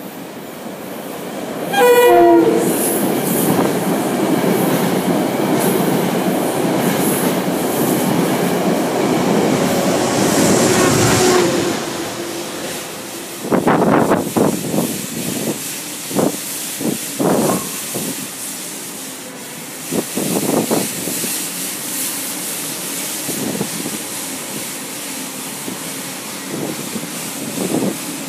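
Metro-North train sounding a short horn blast about two seconds in as it reaches the tunnel portal, then passing close by with a loud rumble and hiss of wheels on rails that fades out about twelve seconds in. A handful of sharp knocks follow between about 13 and 21 seconds, then a lower steady noise.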